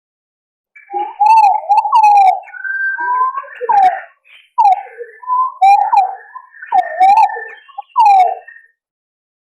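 Green pigeons (punai) giving a run of wavering, fluty whistled notes that glide up and down, starting about a second in and stopping near the end. This is a lure call of the kind played to draw green pigeons in.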